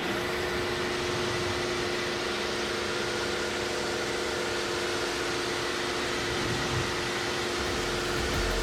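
An electric motor running steadily: an even airy hiss with a few constant hum tones, starting abruptly and not changing.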